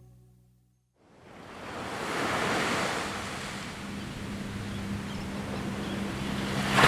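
Fading tail of music, then, about a second in, ocean surf and wind buffeting the microphone rise in as a steady rushing that swells and grows louder near the end.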